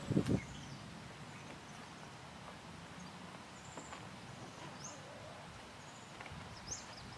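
Faint outdoor ambience with a few short, high bird chirps scattered through it, and one dull thump right at the start.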